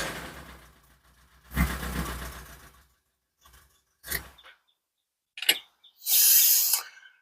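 Porsche 924's four-cylinder engine, which has a rod knock, revving and falling away over the first second, with one more short rev about a second and a half in. After that come a few brief, separate noises and a short hiss near the end.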